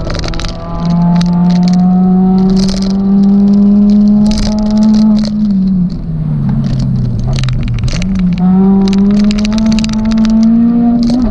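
Suzuki Swift Sport ZC32S's 1.6-litre four-cylinder engine under hard throttle on a hill-climb run, its pitch climbing steadily, falling for a couple of seconds about halfway through as the throttle comes off, then climbing again. Sharp clicks and rattles are heard throughout.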